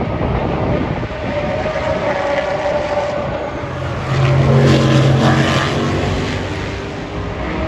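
Race car engines passing on the circuit: a distant engine note at first, then a car's engine swelling loud about halfway through and fading away as it goes by.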